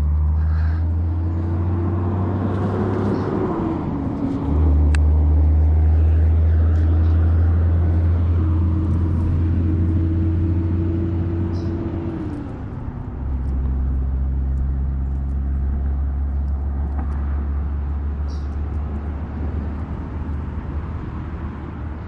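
Boat motor running with a steady low hum, changing speed about four seconds in and again around twelve to thirteen seconds in.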